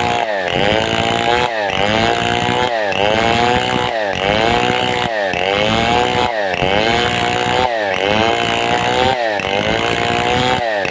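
Large two-stroke chainsaw of the Stihl 070 pattern (New West 707) ripping a log into boards at full throttle. About every 1.2 seconds its engine pitch dips sharply under load and then climbs back.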